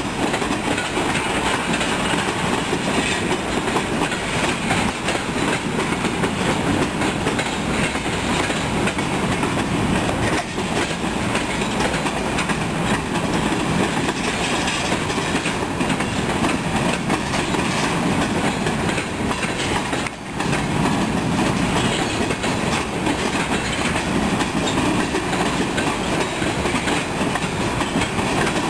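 Pan Am Railways freight train's cars rolling past, steel wheels running on the rails in a steady, loud rumble.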